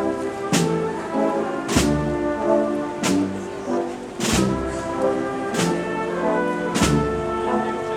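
Wind band of brass and woodwinds playing a slow processional march: long held chords with a bass drum and cymbal stroke about every second and a quarter.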